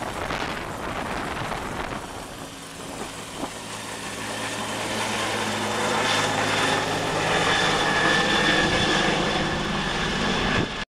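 Bell 412 twin-turbine rescue helicopter flying off after takeoff. At first its rotor gives a pulsing beat, then a steady turbine whine over a low hum takes over and grows louder, cutting off suddenly at the very end.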